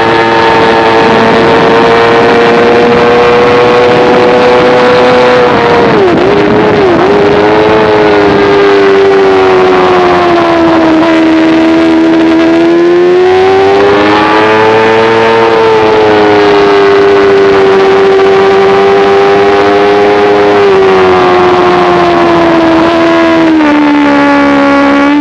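Sport motorcycle engine held at high revs on a racetrack, recorded onboard with wind rush. The pitch sags and climbs through the corners, with two quick dips about six and seven seconds in and a step down near the end.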